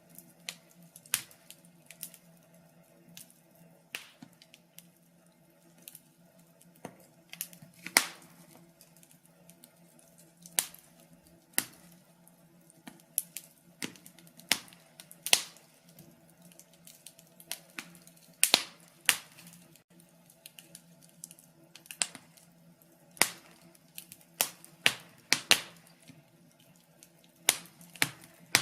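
Wood fire crackling: irregular sharp pops and snaps, several a second at times with gaps between, over a faint steady low hum.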